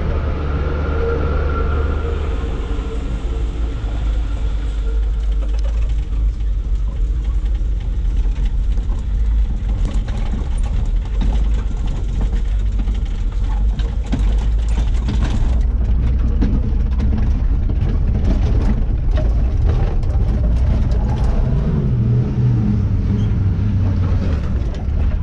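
Light diesel truck engine pulling up a steep climb, a deep steady rumble, its pitch shifting near the end.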